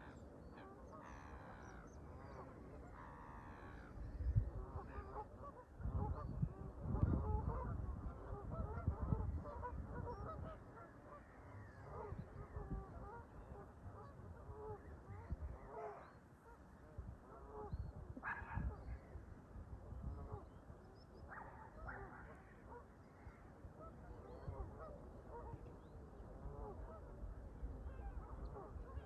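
A flock of Canada geese honking, with many overlapping calls throughout. Gusts of wind rumble on the microphone from about four seconds in to about ten seconds in.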